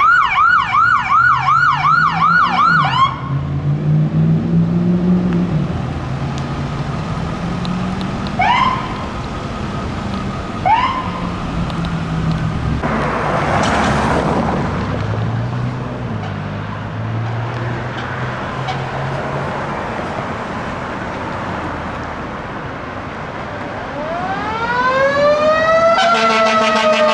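Emergency vehicle electronic siren on a rapid yelp, cutting off about three seconds in, over the rumble of an engine. Two short rising siren whoops follow, then a brief hiss. Near the end a siren winds up in pitch and a loud horn joins it.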